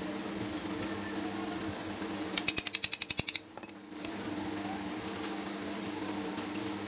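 Toku pneumatic impact wrench hammering in a short burst of about a dozen rapid blows lasting just under a second, over a steady background hum.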